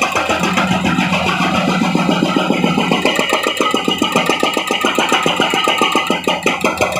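Heavy road-works machine's engine running, with a fast, even pulsing of about eight to ten beats a second.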